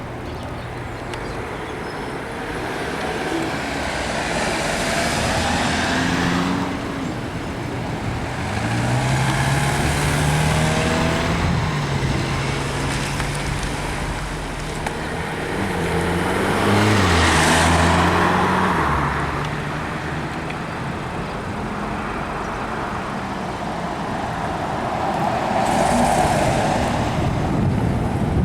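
Road traffic passing, about four vehicles one after another, each rising and fading, with a low engine hum under the middle passes.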